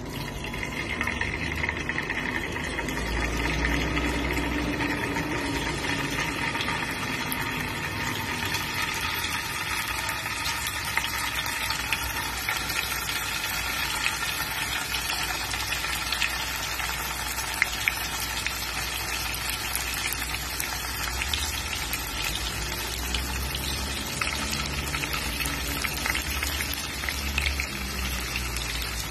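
Tofu cubes frying in hot oil in a nonstick pan: a steady sizzle full of small crackling pops, getting louder over the first few seconds.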